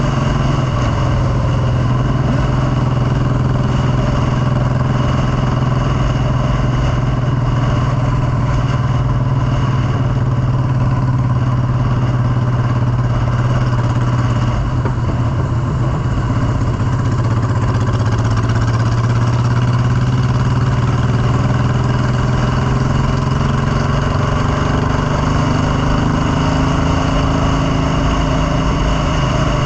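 Motorcycle engine running at a steady pitch, over a constant rush of noise, with small shifts in engine pitch in the later part.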